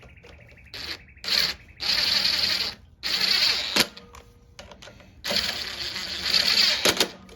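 Power impact tool run in five short bursts, from a fraction of a second to nearly two seconds each, with sharp clicks between, tightening bolts on a lawn mower engine without going full force.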